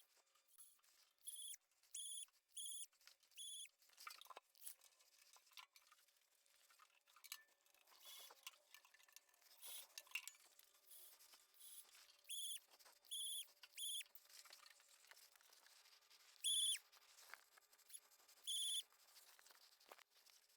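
Faint, short high-pitched whirs in small groups from a Milwaukee M12 cordless grease gun, a brief run at each grease fitting.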